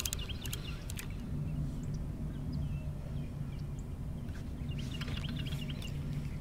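Small birds chirping, a few short calls clustered about five seconds in, over a steady low rumble and hum; a single sharp click about a second in.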